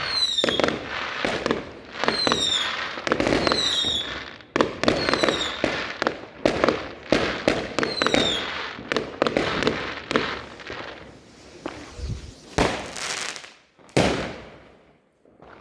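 New Year's Eve fireworks: a dense run of bangs and crackling from firecrackers and rockets, with several short falling whistles in the first half. Toward the end the bangs thin out into a few louder, separate bursts.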